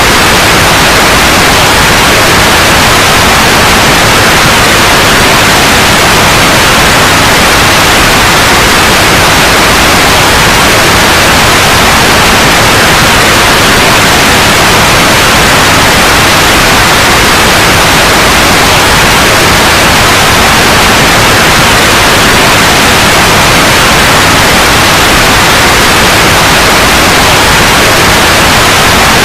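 Loud, steady white noise: an even hiss across all pitches that does not change.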